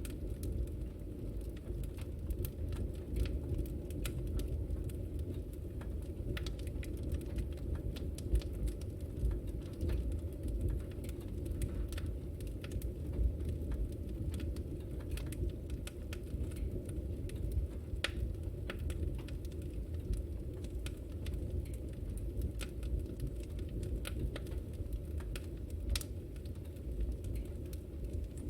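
Wood fire burning in a fireplace, a steady low rumble of flames with frequent small crackles and pops scattered through it.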